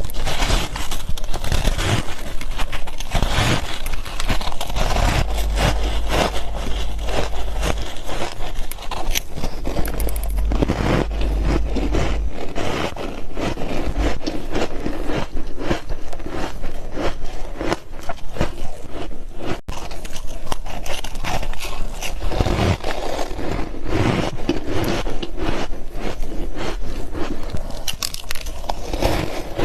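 Ice being bitten and chewed close to the microphone: a dense, continuous crunching and crackling of many quick small cracks.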